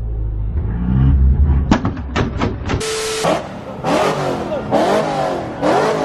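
Car engines revving at a car meet: a deep rumble first, then a short burst of hiss about halfway, followed by repeated rising-and-falling revs.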